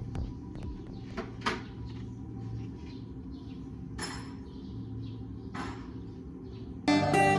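Light metallic clinks and knocks, with a few brief hissing bursts, over a steady low hum. Guitar music comes in sharply near the end.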